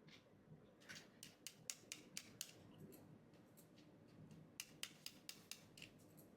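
Two runs of small, sharp clicks and taps, each lasting about a second and a half, one about a second in and one past the middle.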